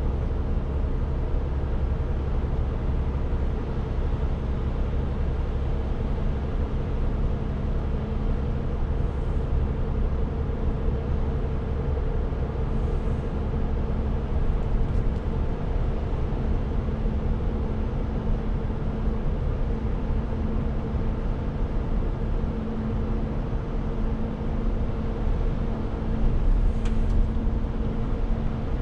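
Renault T520 truck's engine and tyres running steadily while driving: a constant low rumble with a steady hum, and a few faint ticks.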